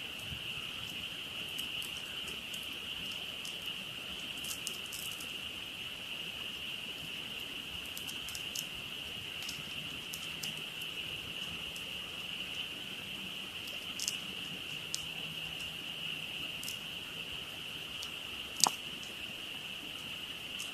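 A frog chorus, a steady high-pitched calling that never lets up, with scattered sharp crackles and pops from a wood campfire; the loudest pop comes near the end.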